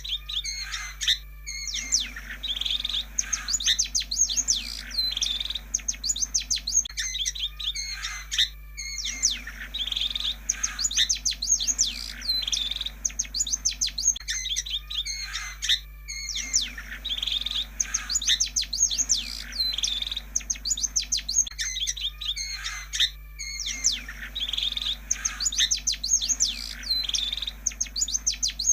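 Long-tailed shrike song: rapid, varied chirps and trills in long phrases, broken by short pauses about every seven seconds, over a steady low hum. It is played as a lure to get a silent shrike to sing.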